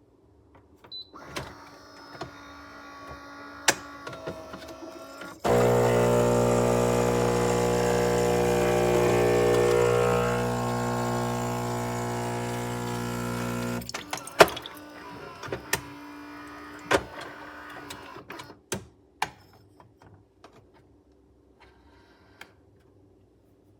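Philips 3200 Series fully automatic espresso machine running through a drink cycle: a softer whir with clicks, then about eight seconds of loud, steady buzzing that stops abruptly, then scattered mechanical clicks and knocks that die away.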